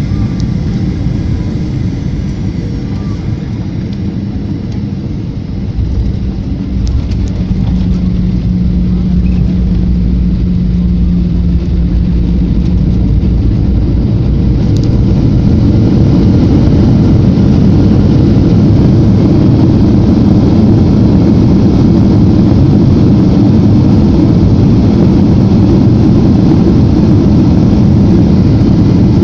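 Airliner engines and rushing air heard from inside the passenger cabin during the landing, a steady low rumble. It swells about a quarter of the way in, then grows louder again around halfway and stays loud.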